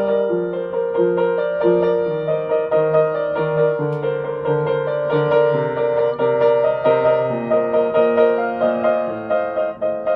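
Solo piano introduction: repeated chords played over a bass line that steps slowly downward, in a steady, gentle rhythm.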